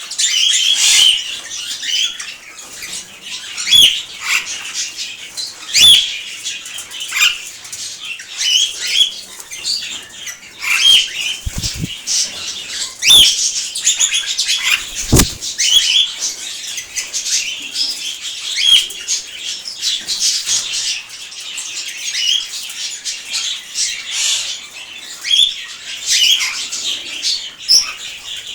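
Aviary parrots and other birds chirping and calling in short, high notes over and over, with wing flutters and a few sharp knocks about halfway through.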